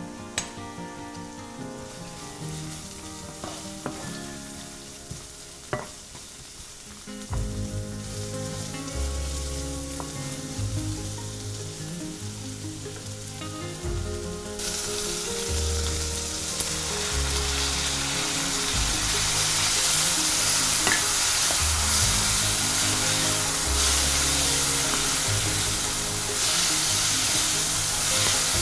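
Onion, garlic and ginger frying in oil in a nonstick pan, sizzling, with a few light taps of a spoon early on. The sizzle turns much louder about halfway through and is stirred with a wooden spatula. Background music with a steady bass pulse runs underneath.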